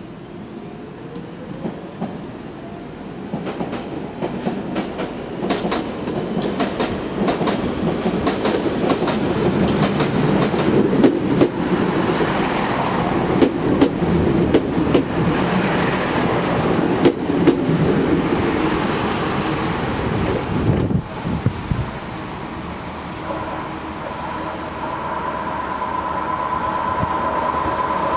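Chiltern Class 165 diesel multiple unit approaching and running past, its noise building as it nears, with its wheels clicking rapidly over the rail joints. About three-quarters of the way through the sound breaks off sharply and gives way to a steadier diesel hum with a held tone from trains standing at the station.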